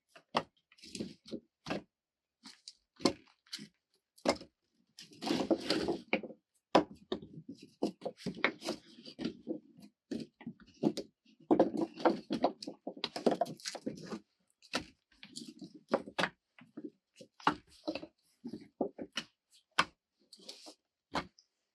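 Irregular knocks, clicks and rustling of things being handled, with a few longer stretches of rustling and scraping.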